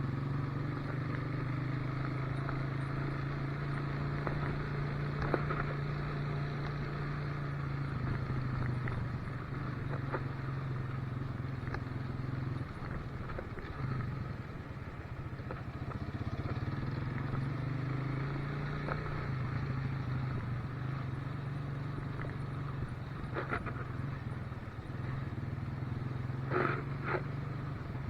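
Motorcycle engine running at a steady cruising note while riding, easing off briefly partway through and picking up again. A couple of short sharp sounds come near the end.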